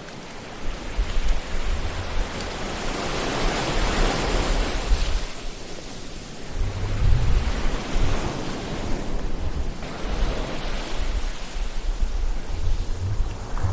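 Ocean waves surging onto a shore, swelling and falling back in slow surges over a low rumble.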